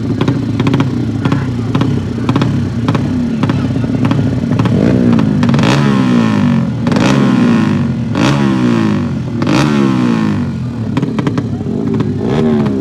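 Motocross motorcycle engines (200cc class) running hard, revving and shifting, with the pitch sweeping repeatedly through the middle.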